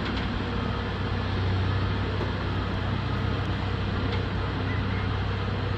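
Engine of construction machinery running steadily: a constant low hum over a wash of noise, with no knocks or changes in pace.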